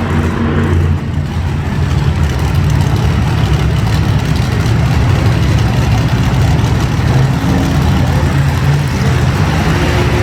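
Monster truck engines running loud and steady, with a brief dip in level about a second in.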